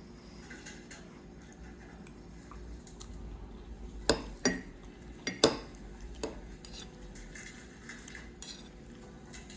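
Dishes and cutlery clinking and clattering, with a run of sharp knocks in the middle, the loudest about five and a half seconds in.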